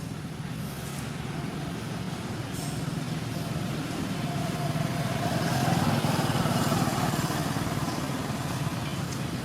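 A steady low rumble that grows louder to a peak about six seconds in, then eases off, with a faint steady hum above it.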